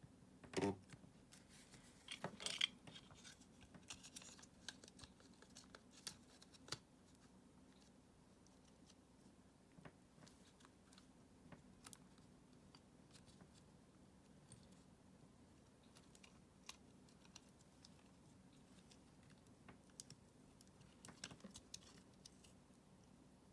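Faint, scattered clicks and short scrapes of small hard parts being handled, with a louder knock about half a second in and a cluster of clicks near the end.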